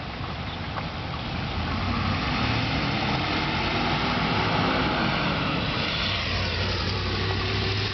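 A motor vehicle passing close by: its engine and road noise swell over the first few seconds, dip in pitch as it goes by, and give way near the end to a steady low engine hum.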